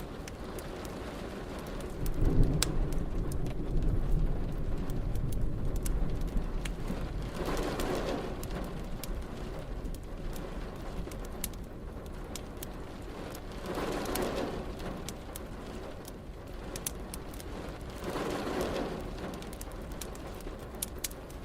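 Steady rain with scattered sharp crackles from a wood fire. A low thunder rumble comes in about two seconds in and dies away over several seconds, and three shorter, softer swells follow later.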